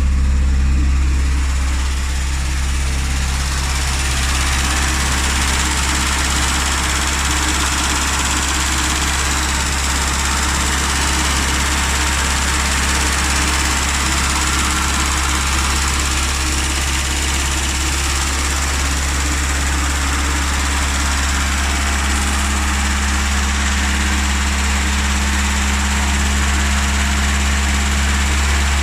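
Classic Mini's A-series engine idling steadily, easing down slightly in the first couple of seconds, running after being left unstarted for three months.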